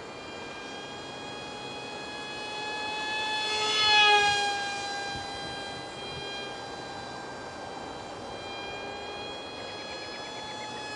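High-pitched whine of an ultra micro RC plane's 8 mm brushed motor turning a direct-drive prop in flight. It swells as the plane passes close about four seconds in, the pitch dropping slightly as it goes by, then grows louder again near the end.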